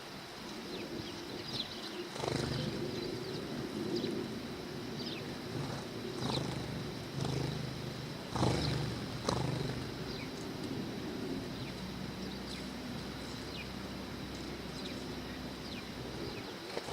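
Sparrows chirping in short, scattered calls, with a few soft thuds and a steady low hum underneath.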